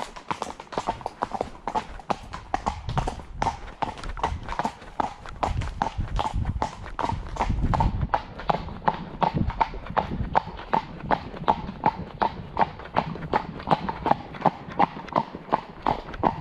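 Shod horse's hooves clip-clopping on a hard surface at a steady walk, about three sharp strikes a second. A low rumble swells in the middle and fades away.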